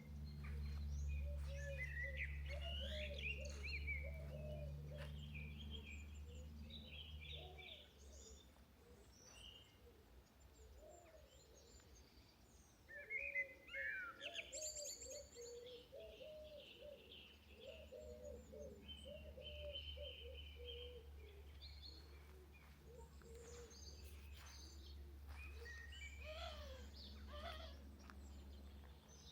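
Several songbirds singing and chirping in a quiet village, the calls overlapping, with a louder burst of descending calls about halfway through. A steady low rumble sits underneath.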